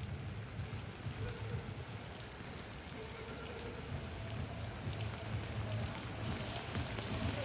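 Steady rain falling and pattering on hard surfaces, with fine drop ticks through it, over a low steady rumble and a faint hum.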